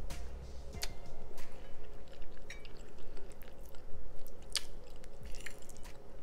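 Close-miked chewing of a mouthful of rice and beans, with irregular wet mouth clicks.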